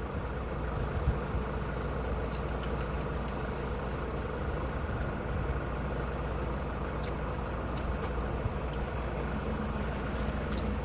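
Steady low hum of an idling engine, with a few faint clicks from someone eating.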